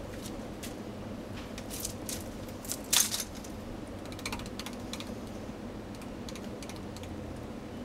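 Casablanca Spirit of Saturn ceiling fan running with a steady hum, with scattered light clicks and rattles that are loudest about three seconds in.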